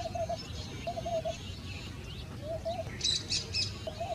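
Birds calling from the trees: short mid-pitched notes repeated in groups of two to four, with a few sharp high chirps about three seconds in, over a low rumble of outdoor noise.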